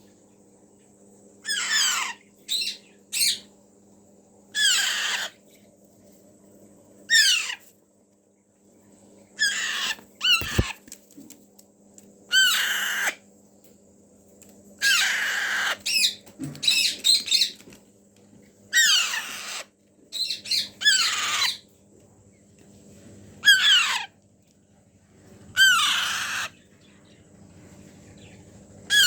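Alexandrine parakeet chicks calling over and over, each call a short rasping cry that drops in pitch, coming every second or two.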